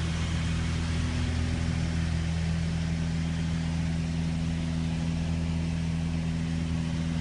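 Steady drone of a low-flying aircraft's engine, holding an even pitch with a constant hiss and no change in level.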